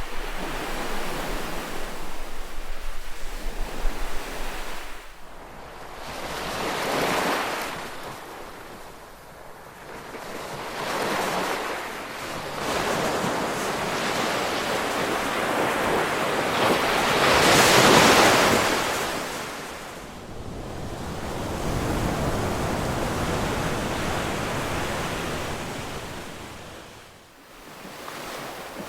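Ocean waves breaking and washing in on the shore: a steady noisy surf that rises and falls in surges every few seconds, the biggest wave breaking a little past halfway, with some wind noise on the microphone.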